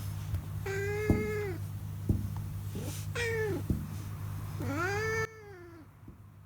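Brown tabby cat meowing three times, drawn-out meows that rise and fall in pitch, the contented meowing of a cat enjoying being stroked. A steady low hum runs underneath, and the sound drops away abruptly near the end.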